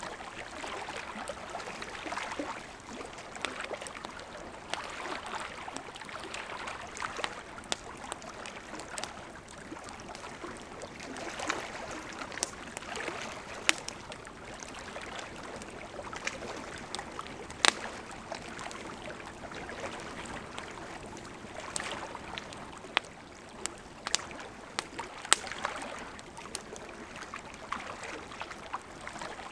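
Wood fire burning, with a steady soft hiss of the flames and irregular sharp crackles and pops of burning wood, a few louder pops standing out.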